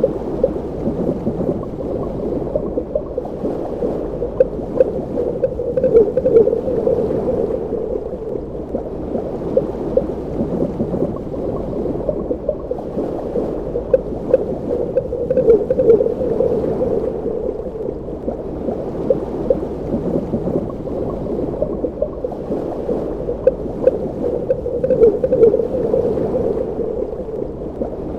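Underwater water ambience: muffled, continuous bubbling and gurgling with many small pops, swelling about every ten seconds.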